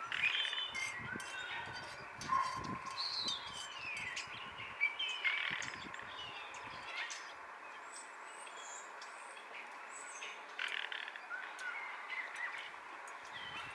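Small birds chirping and calling, many short calls that slide up and down in pitch, overlapping through the whole stretch. A few light knocks come in the first half.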